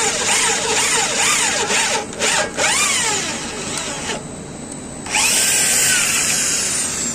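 Electric drill boring into a steel I-beam, its whine rising and falling over and over as it works under load. It drops to a quieter run about four seconds in and comes back loud a second later.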